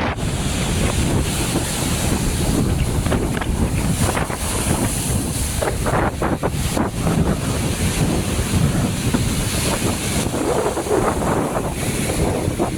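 Strong sea wind buffeting the microphone, with surf from the sea underneath.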